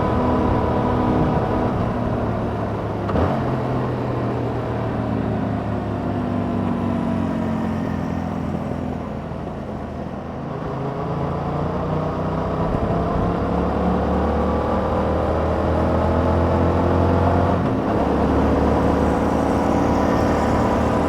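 Yamaha MT-07's parallel-twin engine running through its stock exhaust while ridden. Its note falls for several seconds as the bike slows, then climbs steadily under acceleration. It breaks briefly for gear changes about three seconds in and near the end.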